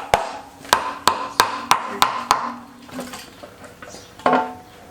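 A hammer tapping on metal engine parts, about three sharp ringing strikes a second, stopping a little over two seconds in, then one more ringing strike near the end.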